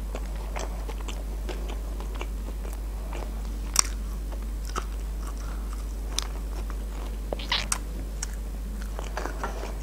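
Biting into and chewing a KFC Bigger burger with breaded fried chicken, tomato and cabbage: scattered soft crunches and mouth clicks, with one sharp crunch about four seconds in. A steady low hum runs underneath.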